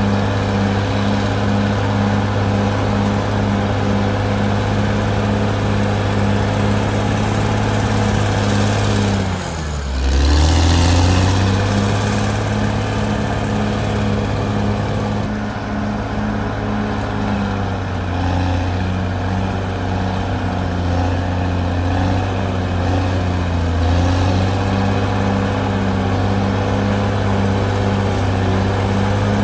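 Caterpillar D6R XL bulldozer's diesel engine running steadily and loudly. About ten seconds in the engine note drops sharply and climbs back.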